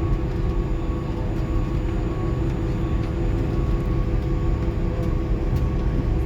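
Steady cabin drone inside an Airbus A310 on the ground after landing: a low rumble with a few steady tones, and a couple of faint clicks near the end.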